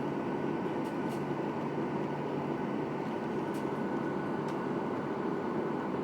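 Steady cabin noise inside a Boeing 737-800 airliner: an even hum of the jet engines and cabin air, with a faint steady whine and a few faint clicks.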